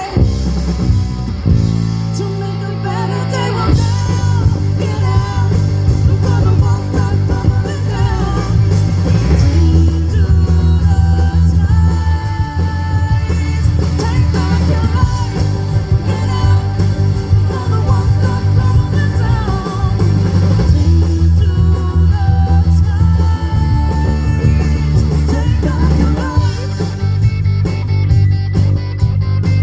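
Live rock band playing a song: electric guitars, bass and drum kit, with a lead vocal singing over them.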